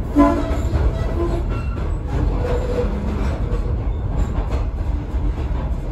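Train rolling slowly, heard from aboard a former Union Pacific caboose: a steady rumble of wheels on the rails, with a brief wheel squeal just after the start and a few fainter squeaks later.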